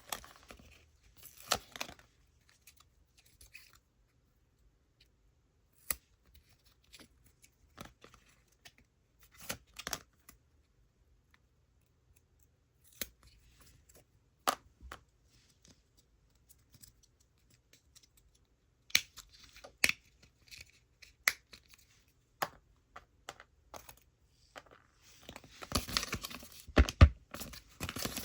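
Scattered clicks and taps of die-cast mini cars and plastic toy parts being handled and set down, a few at a time with pauses between. About 25 seconds in comes a denser stretch of rustling and scraping, the loudest part.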